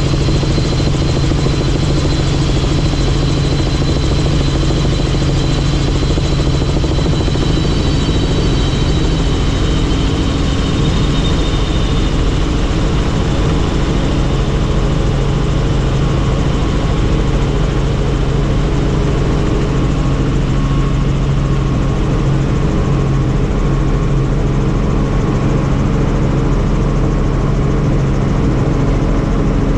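Helicopter in flight: steady engine and rotor noise, with a faint high whine that drifts slightly lower over the first dozen seconds.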